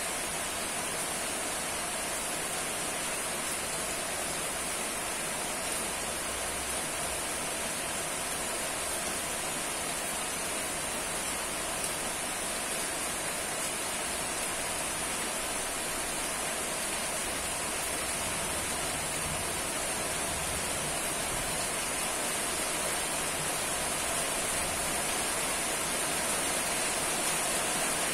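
Steady rain falling, a continuous even hiss that grows slightly louder toward the end.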